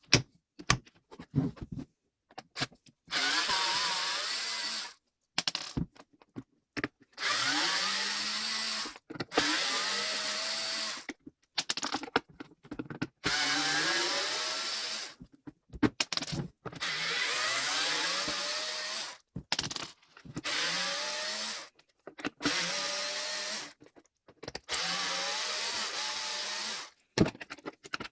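GRUNDER 18V cordless chainsaw (GY2191) run in repeated bursts of about one to two seconds, its electric motor whining up in pitch each time the trigger is squeezed and stopping when it is let go, with clicks and knocks in the short gaps between.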